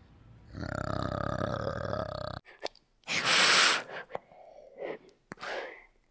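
Adult male orangutan giving a low, drawn-out grunting call that cuts off about two and a half seconds in. A second later a green iguana gives one loud hiss, followed by a few softer breathy hisses.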